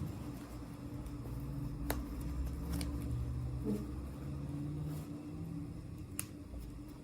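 A few light, sharp clicks and taps about two, three and six seconds in, typical of toy packaging being handled during an unboxing, over a steady low hum.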